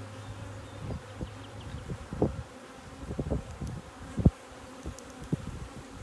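Honeybees buzzing around an open hive, with scattered low thumps; the loudest come about two seconds in and again about four seconds in.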